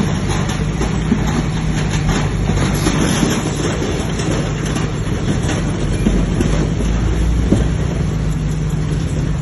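Bulldozer's diesel engine running steadily under load, with the tracks and steel parts clanking and rattling.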